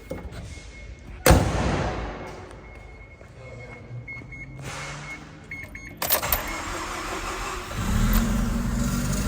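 Mazda RX-7 FD's twin-turbo 13B rotary engine being cold started. A sharp knock comes about a second in; the starter cranks about six seconds in, and the engine catches and settles into a steady idle near the end.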